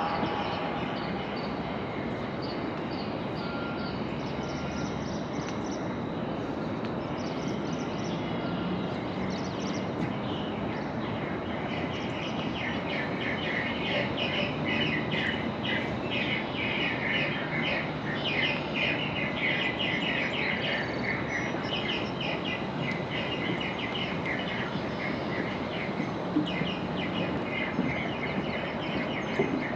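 Birds chirping and singing over a steady outdoor background noise. The birdsong grows thicker from about twelve seconds in.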